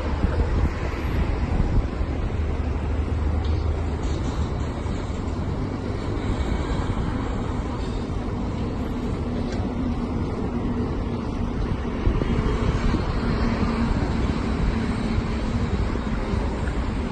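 Wind buffeting the microphone over a steady low rumble of vehicle traffic, with a faint steady hum through the middle.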